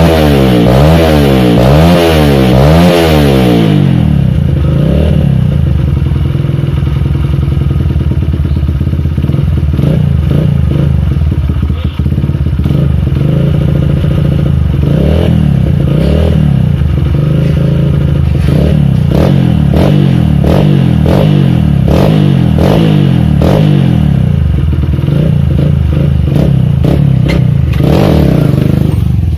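Kawasaki KLX 150's bored-up single-cylinder four-stroke engine through an aftermarket exhaust, revved quickly up and down several times. It then settles to a steady idle with repeated short throttle blips from about ten seconds in.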